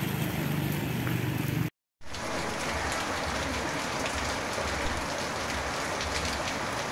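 Steady rain falling, an even hiss that breaks off into a brief silent gap about two seconds in, then carries on unchanged.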